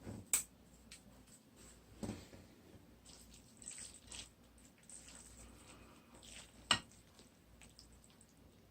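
Close-miked eating of instant ramen: soft wet slurps and chewing of noodles, broken by a few sharp clicks, the loudest about seven seconds in.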